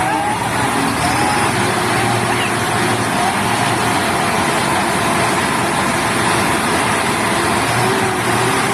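Heavy truck engine running steadily, a constant engine drone under broad road noise.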